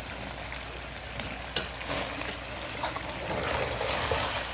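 Pork ribs sizzling as they fry in a pan, a steady hiss with a few sharp clicks between one and two seconds in.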